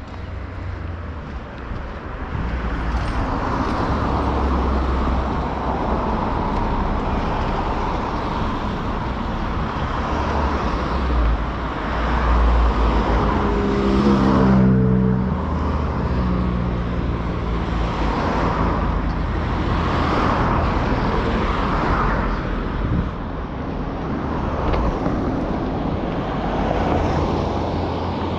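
Road traffic passing close by: a steady run of car engine and tyre noise that swells and fades several times. About halfway through, one vehicle goes past with its engine note dropping in pitch.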